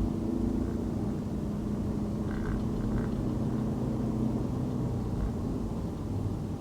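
Car driving on a city road: a steady low rumble of engine and tyre noise with a faint hum. Faint short high tones sound twice about two and a half to three seconds in.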